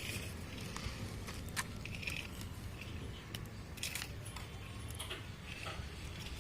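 Scattered light scrapes and clicks of a mason's trowel working wet cement mortar, over a low steady background rumble.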